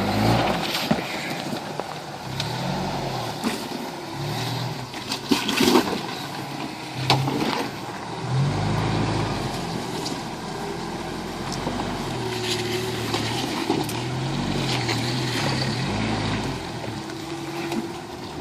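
1981 Toyota pickup's engine revving up and down as the truck crawls over rocks in a creek bed, with a few sharp knocks partway through.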